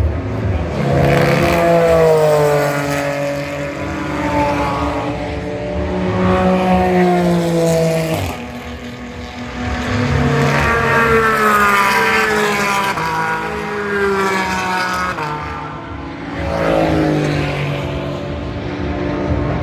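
GT race car engines accelerating at speed, their pitch repeatedly climbing and dropping back as they shift gears. This comes in several waves of cars, with a brief lull about halfway through.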